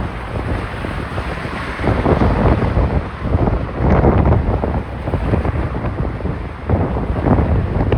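Strong wind buffeting a cell phone's microphone, rising and falling in gusts, with the loudest gusts about two and four seconds in and again near the end.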